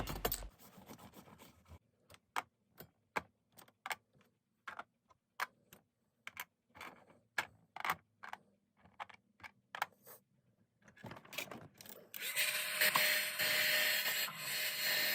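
Irregular light clicks and taps of small hard objects being handled. About twelve seconds in, a steady hiss of rushing air starts, with a faint steady tone in it.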